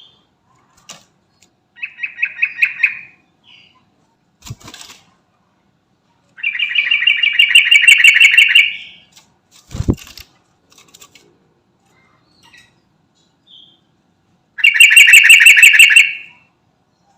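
Yellow-vented bulbul (trucukan) singing three phrases of rapid repeated notes: a short one about two seconds in, a long one of over two seconds in the middle, and another near the end. A sharp low knock comes just after the middle phrase.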